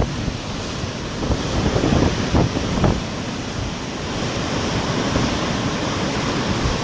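Storm wind rushing steadily, with a few heavier gusts buffeting the microphone about two to three seconds in.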